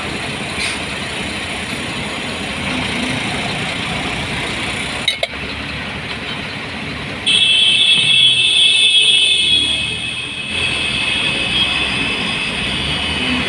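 Steady vehicle running noise in slow traffic. About halfway through, a high-pitched squeal starts suddenly and holds for several seconds.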